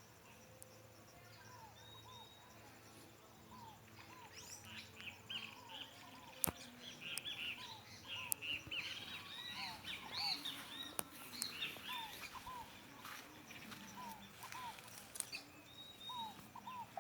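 Several birds singing and chirping at once. A dense run of high chirps and whistles is busiest in the middle, over a lower two-note call that repeats throughout. A few sharp clicks stand out.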